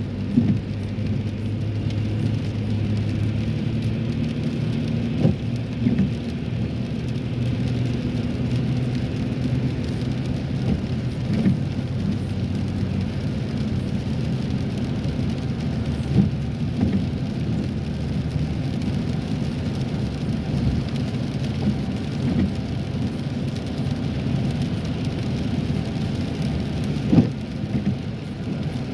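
Steady low rumble of a car's engine and tyres heard from inside the cabin while driving, with a few light knocks scattered through it.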